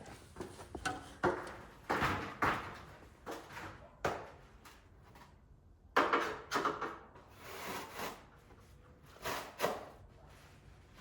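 Irregular knocks, clunks and scraping noises, about ten of them at uneven intervals, as objects are handled and set down.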